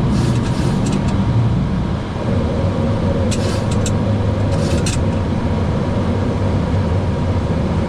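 Steady low rumble of a Boeing 737-800 jet heard inside the flight deck, with two short high rattles about halfway through.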